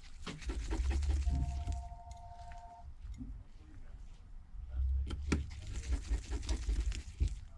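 Small screws being driven back into a Samsung Galaxy S8's frame with a screwdriver: two runs of rapid clicking and handling noise, with a brief steady whine about a second in.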